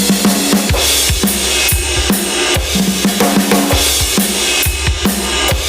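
Yamaha DTX6K3-X electronic drum kit played with its raw sounds preset: a steady groove of kick drum, snare and cymbals.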